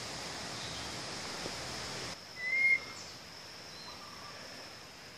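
A bird gives one short, clear whistled note about two and a half seconds in, then a fainter short note, over a steady high insect buzz. A hiss of background noise cuts off suddenly about two seconds in.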